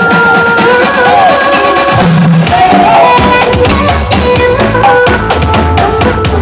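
Loud music with hand drums and a gliding melodic lead line, played through a large parade sound system; a heavy bass beat comes in about three seconds in.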